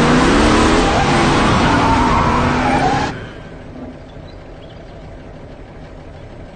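Car engine revving, its pitch rising and falling, loud for about three seconds, then cutting off suddenly to a quieter steady hum.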